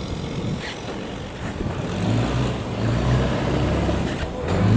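Boat engine running, growing louder from about two seconds in with a low, steady hum.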